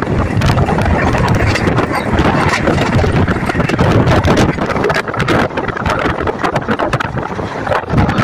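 Narmada Express passenger train running at speed: a steady rumble of wheels on the track, with wind buffeting the microphone.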